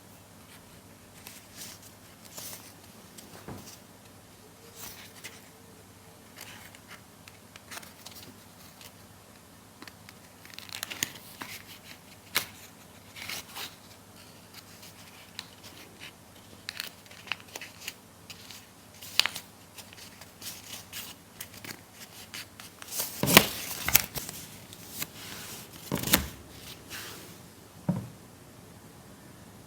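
Paper being handled while making a papercraft: scattered short rustles, crinkles and snips, with a louder flurry of handling about three-quarters of the way through.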